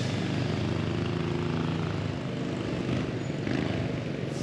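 Honda motorcycle engine running at low speed, a steady low hum that loosens about halfway through, with wind noise on the microphone.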